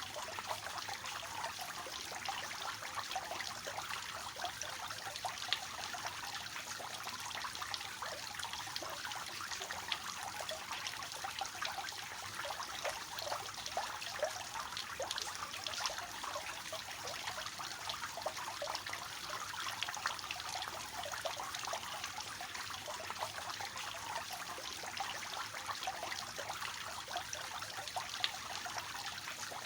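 Water falling and splashing steadily from a three-tiered cascade fountain into its basins.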